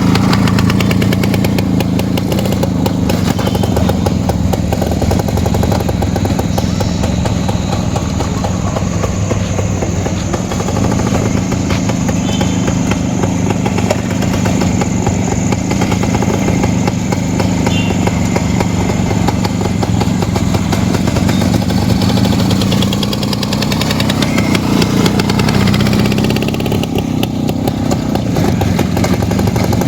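Rajdoot 175's single-cylinder two-stroke engine running steadily, its pitch rising and falling a little with the throttle.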